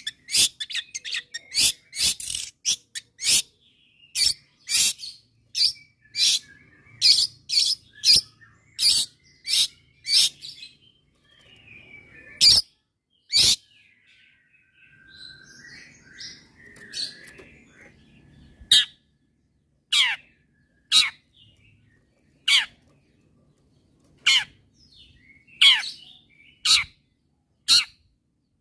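Long-tailed shrike (cendet) calling in a series of short, sharp, downward-sweeping notes, about two a second for the first ten seconds, then more widely spaced, with softer twittering in between around the middle.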